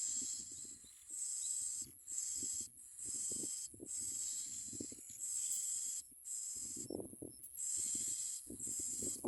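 Bar-winged prinia nestlings begging with hissing calls, repeated in short bursts about half a second to a second long with brief gaps, over soft rustling of the nest.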